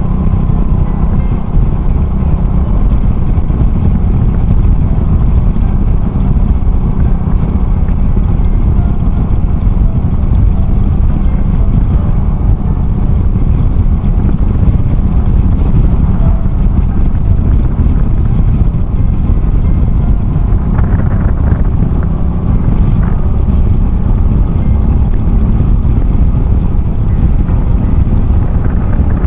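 Honda Cross Cub 110 motorcycle being ridden: its single-cylinder engine, fitted with an aftermarket RPM Raptor muffler, running at a steady pace under constant wind rush on the microphone.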